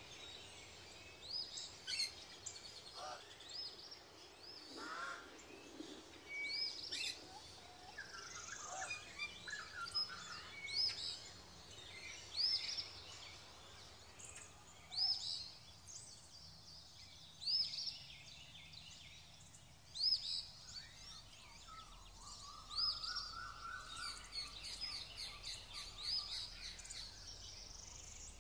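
Birds calling: one bird repeats a short, high chirp every second or two, over quieter calls from other birds.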